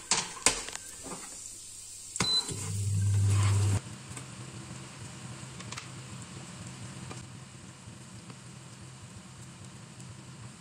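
Sliced sausage and minced aromatics frying in oil in a nonstick frying pan, a steady sizzle. A few sharp knocks come in the first half second, and a loud low hum sounds for about a second near the three-second mark.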